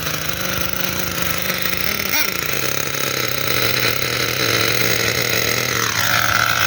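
Small two-stroke nitro engine of a Thunder Tiger MTA4 S28 RC monster truck running steadily just after start-up, warming up. Its pitch steps down slightly about two seconds in and rises a little near the end.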